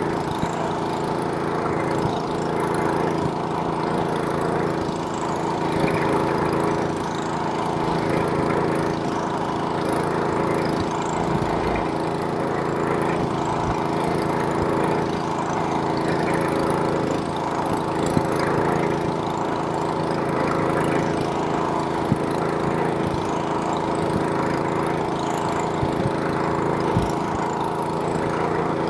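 Snowblower's small gasoline engine running steadily under load while clearing snow, with a noisy rush of snow being thrown over the engine hum.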